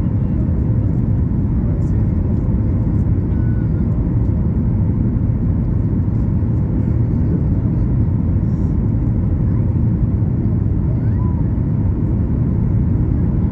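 Steady low rumble inside the cabin of a Boeing 737 MAX 8 in flight: its CFM LEAP-1B engines and the airflow over the fuselage.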